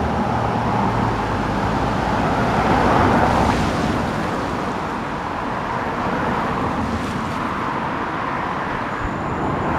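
Road traffic: a steady rush of tyre and engine noise, swelling as a vehicle passes about three seconds in.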